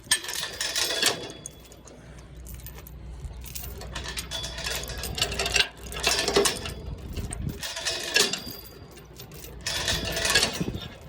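Steel load-securement chain (3/8 in) clinking and rattling in several bursts as it is pulled in over the flatbed load, over a low steady rumble.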